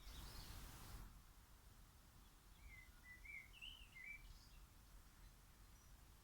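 Faint birdsong: a short run of high chirping notes a little before halfway through, over a low steady rumble, with a brief hiss in the first second.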